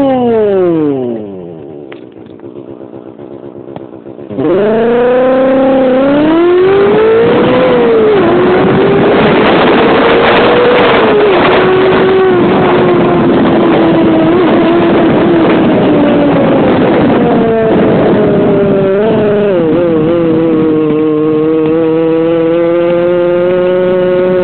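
2008 Suzuki Raider J underbone motorcycle's two-stroke engine through its exhaust: revs fall away to a quieter idle, then about four seconds in the throttle opens hard and the engine note climbs, drops briefly, and holds loud and high for the rest, with small dips in pitch.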